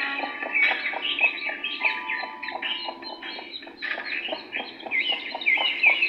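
Several birds chirping and calling at once, with a lower note repeated about five times a second underneath.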